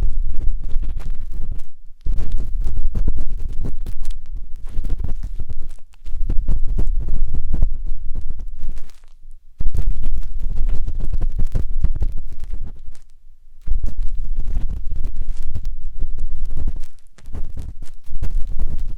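Matchstick scraping and rubbing inside the silicone ear of a 3Dio binaural microphone: a close, deep scratching rumble in spells of two to four seconds with brief pauses between them.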